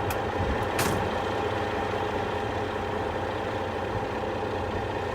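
Tow truck engine idling steadily, with a short burst of air hiss about a second in, like an air brake being set.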